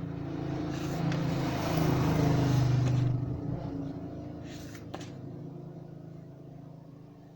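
A motor vehicle passing by: its engine hum grows louder over about three seconds, then slowly fades away. A single click about five seconds in.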